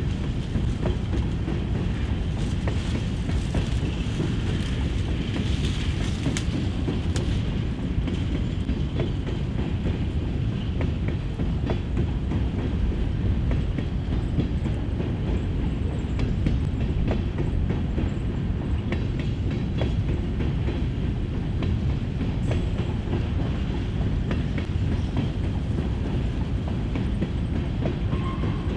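Empty covered hopper cars of a grain train rolling past at steady speed: a continuous low rumble of steel wheels on rail, with clickety-clack and sharp clicks over the joints, more of them in the first several seconds.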